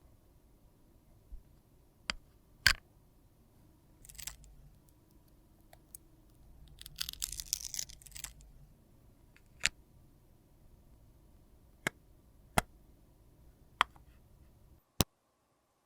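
Close-up handling of makeup products and tools: scattered sharp clicks and taps, with a scraping, rustling stretch of about a second and a half midway. The background drops to silence shortly before the end.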